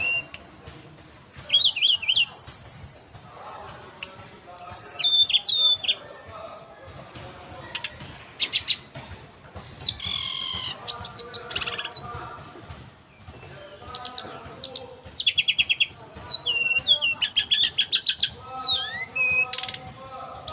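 A tledekan gunung, an Indonesian songbird, singing a varied song in repeated phrases of high chirps, rapid trills and falling whistled notes, with short pauses between phrases.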